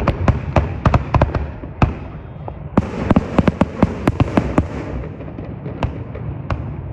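Fireworks going off in a rapid run of sharp bangs and crackles, with a dense flurry about three seconds in, over a steady low rumble.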